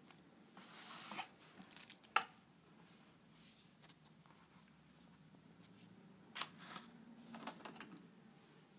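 Light handling noise of unboxing items for a TPU phone case: a few brief rustles of packaging, with one sharp tap about two seconds in.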